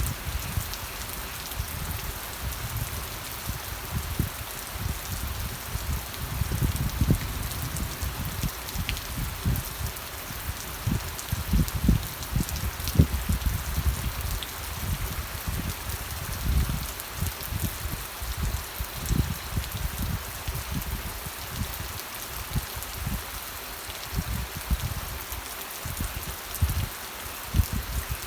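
Steady rain falling, an even hiss of drops, with irregular low thuds and rumbling underneath.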